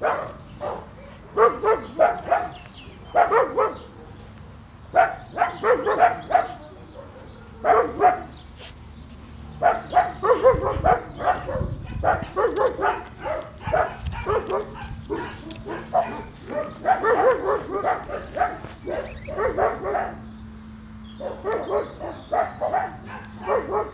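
Dachshund puppy yapping in repeated bouts of short, high barks, several yaps to a bout with brief pauses between.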